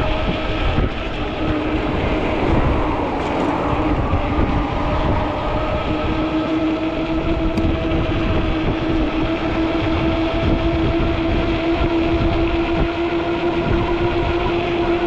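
Ecotric 20-inch folding fat-tire e-bike under way: a steady pitched hum from the moving bike, over a low rumble of wind on the microphone.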